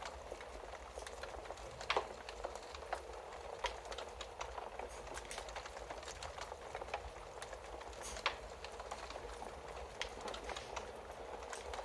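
Wood fire crackling: a steady hiss dotted with frequent small snaps, and two louder pops, about two seconds in and about eight seconds in.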